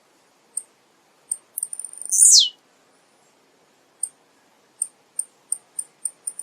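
Male blue-black grassquit (tiziu) singing. Short high ticks quicken into a loud, downward-sweeping call about two seconds in, and another run of quickening ticks starts up near the end.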